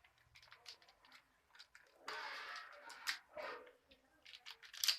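Small pen drive parts being handled: scattered light clicks and rattles of small plastic and metal pieces, with a short rustle in the middle and a sharper click near the end.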